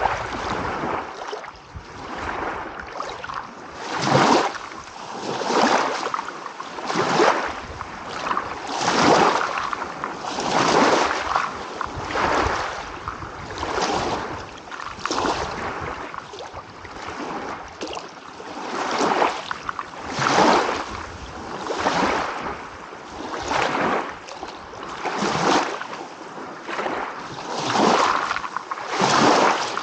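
Small waves washing in one after another, each a swell of rushing water noise that rises and falls about every one and a half to two seconds.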